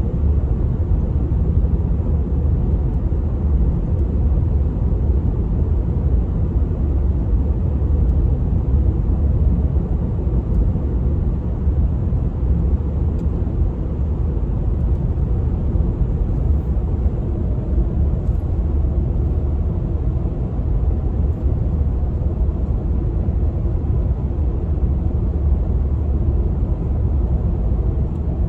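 Truck driving at a steady speed, heard from inside the cab: a continuous low rumble of engine and road noise.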